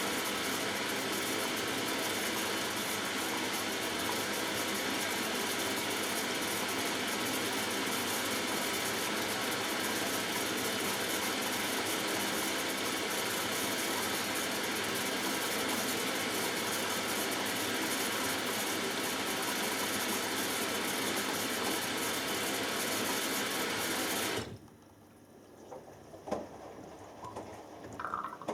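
Hoover Dynamic Next washing machine running early in its cotton cycle, a steady even noise that cuts off suddenly about 24 seconds in. Afterwards come only faint knocks and clicks from the machine.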